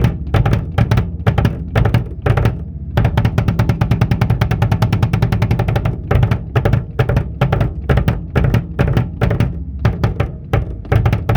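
Acoustic drum kit, its toms freshly fitted with Remo Pinstripe heads, played in fast runs of strokes over the bass drum, with an unbroken roll about three seconds in that lasts some three seconds.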